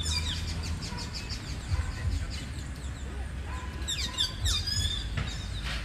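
Small birds chirping: bursts of quick, high, falling chirps at the start and again about four seconds in, over a low rumble of wind or handling noise.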